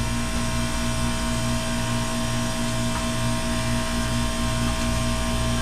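Hoshizaki commercial ice machine running with its newly replaced compressor, in the hot-gas harvest cycle: a steady mechanical hum with a low, evenly pulsing throb underneath.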